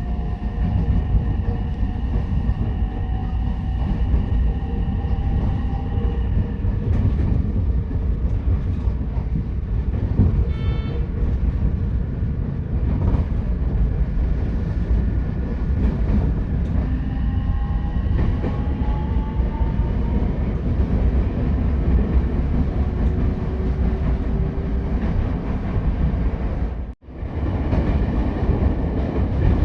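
Ichibata Electric Railway 7000 series railcar heard from inside while running: a steady rumble of wheels on the rails, with the motor whine rising slowly in pitch at times. The sound cuts out for a moment near the end.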